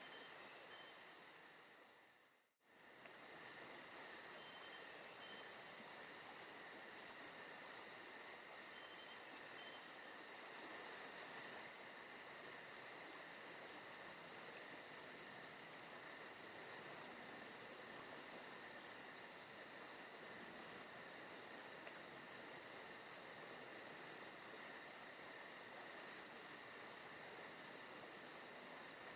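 Faint, steady insect chorus from a forest ambience recording, with fast even pulsing and sustained high tones. About two and a half seconds in it fades out almost completely for a moment, then comes straight back, like the loop point of the track.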